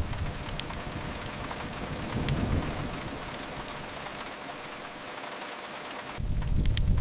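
Steady rain hiss from rain on a window, mixed with a crackling fireplace that gives a few sharp pops, one just under a second in and more near the end. A deep low rumble dies down in the middle and comes back suddenly about six seconds in.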